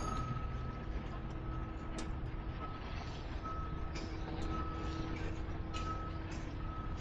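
A high electronic beeping tone that sounds on and off, over a steady low rumble.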